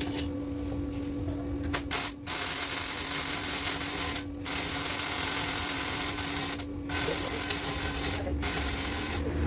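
Welding seams on a car exhaust pipe: a steady noisy hiss in runs of one to three seconds, cut by four short pauses between beads, over a constant low hum.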